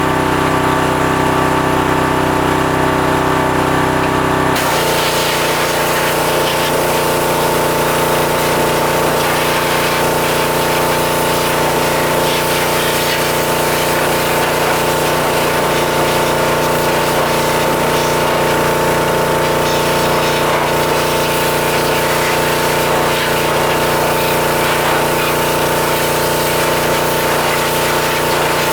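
Pressure washer running; about four and a half seconds in, the trigger opens and a steady hiss of high-pressure water spray joins the motor and pump, whose tone shifts under the load.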